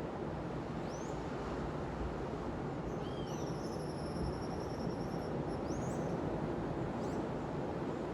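Steady wash of sea surf on a beach, with small birds calling over it: a few short rising chirps and a high trill lasting a couple of seconds in the middle.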